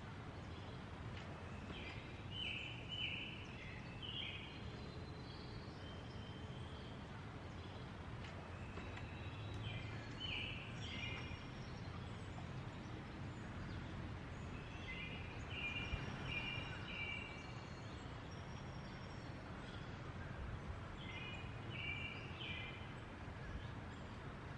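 Wild birds singing in a forest: clusters of short chirped phrases come every few seconds over a steady outdoor background hum.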